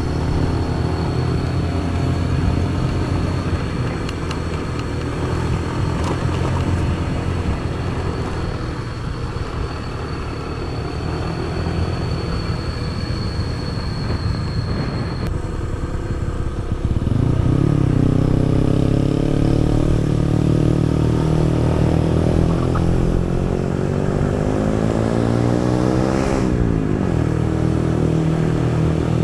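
Motorcycle engine running on the move with road and wind noise. About two-thirds of the way through it gets louder as the throttle opens and the engine pitch climbs. Near the end the pitch drops briefly, as at a gear change, then climbs again.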